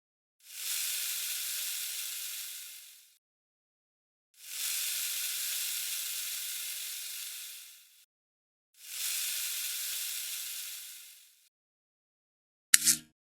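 Three bursts of steady hissing, each about three seconds long and tailing off, with silence between them, then a short sharp sound near the end.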